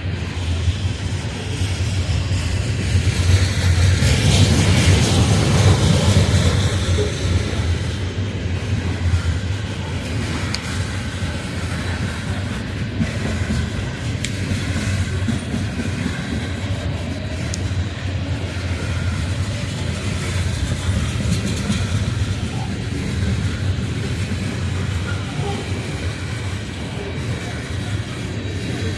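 Coal hopper cars of a CSX freight train rolling past: a steady rumble of steel wheels on rail, a little louder around four to six seconds in.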